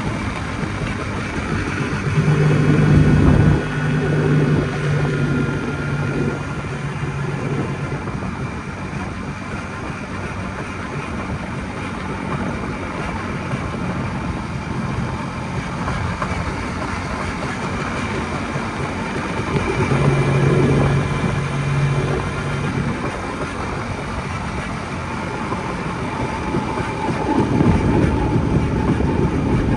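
Jawa 250 Type 559 motorcycle's single-cylinder two-stroke engine running while riding, with rushing road and wind noise. The engine note swells louder about two seconds in, again about twenty seconds in, and near the end.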